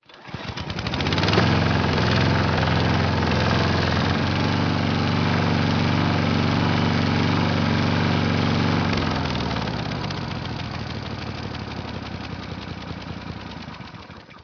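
An engine running: it starts and builds within about a second and a half, runs steadily, then winds down and fades out over the last few seconds.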